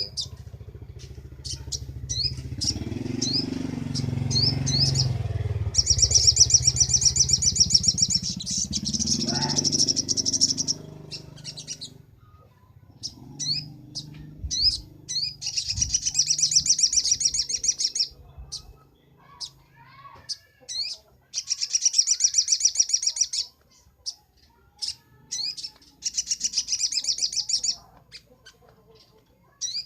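Little spiderhunter (sogok ontong) singing: bursts of fast, high chattering trills lasting a few seconds each, four times, with short single chirps in between. A low rumble runs underneath for the first dozen seconds or so.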